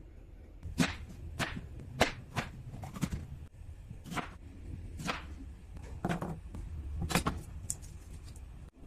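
A series of about ten sharp hits or swishes, roughly one a second, over a low steady hum.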